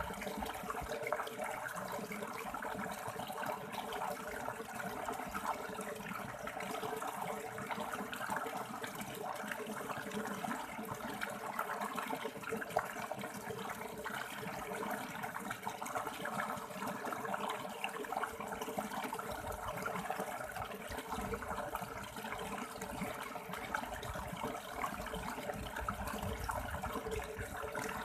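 River water running steadily over and between stones, a continuous even rush and splash.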